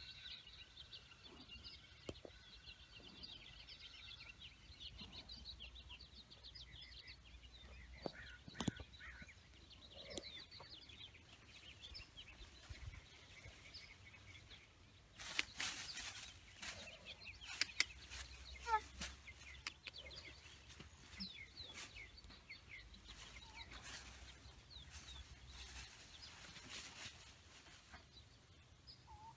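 Faint birds chirping, many short high calls throughout. About halfway through comes a stretch of scattered clicks and rustling.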